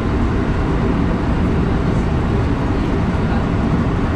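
Electric commuter train running along the line, heard from inside the passenger car: a steady low rumble of wheels on rail and running noise.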